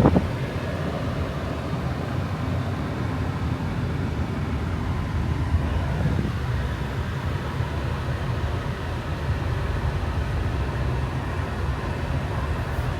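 Steady road and engine noise of a 2018 Jeep Compass being driven, heard from inside the cabin, with a brief bump right at the start.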